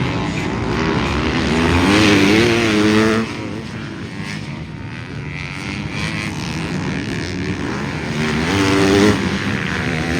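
Motocross bikes racing on a dirt track, engines revving up and down through the gears. The engine note is loudest about two to three seconds in and again near the end, each time cutting off sharply.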